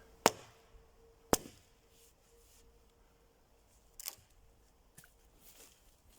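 Wood giving sharp cracks, four in all: two loud ones about a second apart near the start, then two fainter ones about four and five seconds in.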